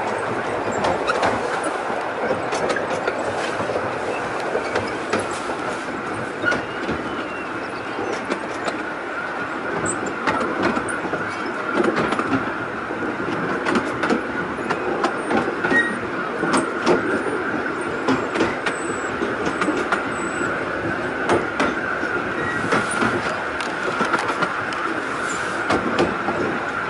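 A miniature steam railway train running, heard from one of its open carriages: a continuous rolling rumble of the wheels on the track, with a steady high tone running through it and many irregular clicks.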